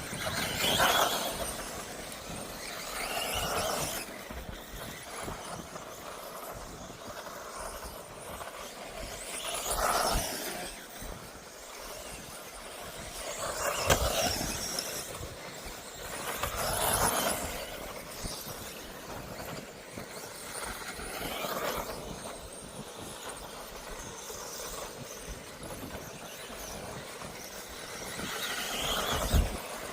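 1/10th-scale 2wd electric off-road RC buggies racing, their motors whining and swelling in loudness as cars come past every few seconds.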